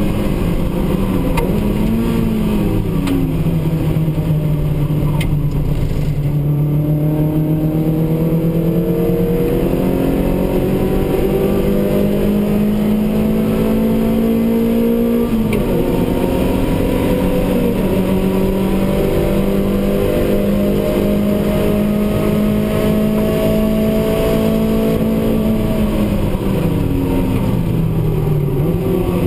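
Racing car's engine heard from inside the cabin under hard acceleration: its pitch climbs slowly, drops sharply with an upshift about halfway through, climbs again, then falls away a few seconds before the end as the car slows for a corner.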